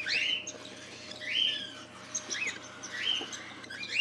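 Young cockatiels calling: four short, harsh calls about a second apart, each rising then falling.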